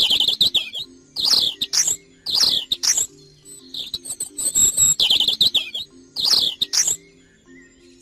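European robin singing: short, high, warbling phrases, about six of them, separated by brief pauses. Quiet background music with a simple low melody plays underneath.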